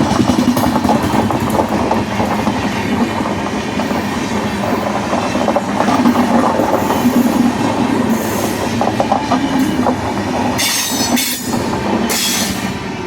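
Train passing on the rails: a steady rumble of wheels with clattering, and two brief high-pitched bursts near the end.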